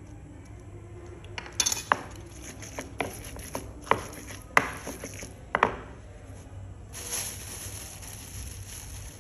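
Kitchen utensils knocking and clinking against dishes, about eight sharp knocks with a short ring. About seven seconds in, a steady hiss comes in.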